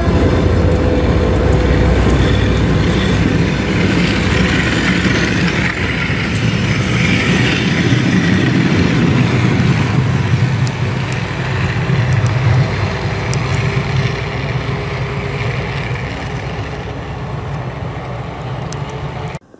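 Coaches of a departing passenger train rolling past, steel wheels rumbling and clattering on the rails. The sound fades slowly as the train pulls away, then cuts off abruptly near the end.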